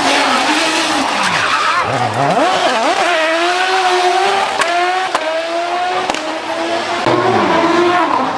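Rally car engine running hard. The revs drop sharply about two seconds in, climb back and hold high, with a few sharp cracks in the middle.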